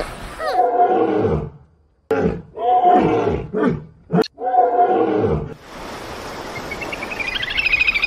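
Tiger growling in a run of about five short, rough roars, one after another. From about six seconds a raspy hiss with a quick pulse takes over and grows louder.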